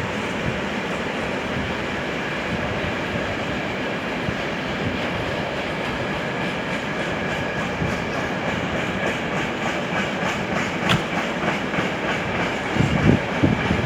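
A train running on the rails, its wheels clicking over the rail joints; the clicks come more often in the second half, and a low rumble grows louder near the end.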